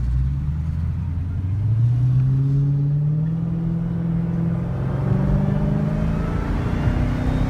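Car engine accelerating, its pitch rising for about three seconds, then easing off about five seconds in and climbing again.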